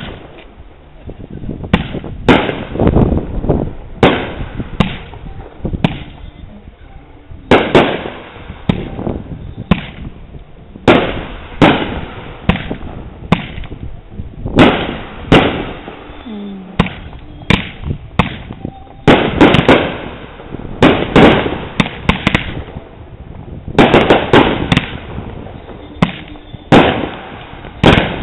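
Consumer fireworks, cakes and roman candles, going off: a dense, irregular string of sharp bangs, many in quick clusters, with no pause longer than about a second.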